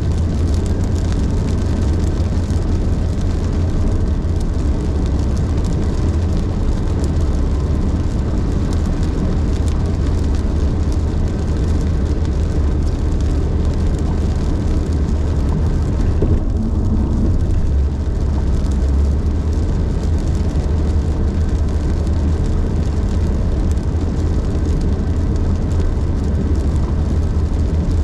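Steady low rumble of a car driving at highway speed: engine, tyre and road noise.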